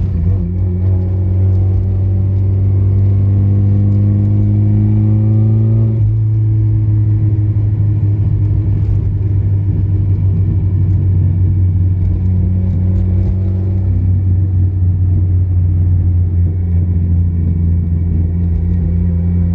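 A 1996 Nissan 180SX Type R's turbocharged SR20DET four-cylinder engine heard from inside the cabin over steady road rumble. It pulls up through the revs for about six seconds, then drops off sharply, and later rises briefly and falls again.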